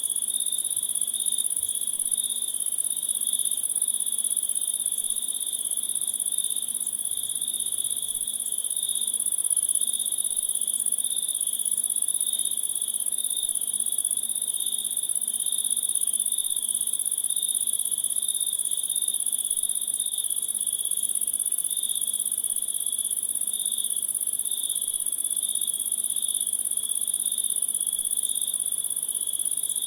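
Insect chorus, cricket-like: a steady, high, unbroken trilling at two pitches.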